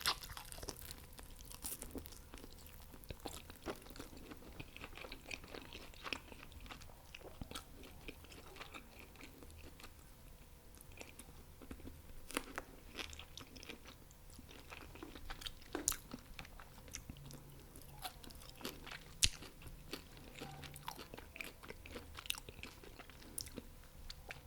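Close-miked eating of fried chicken wings and fried rice: wet chewing with many irregular, sharp crunches and mouth clicks, one crunch standing out about two-thirds of the way through.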